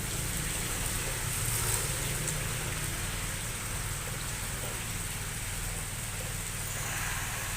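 Light rain falling steadily, an even hiss without a break, over a low steady hum.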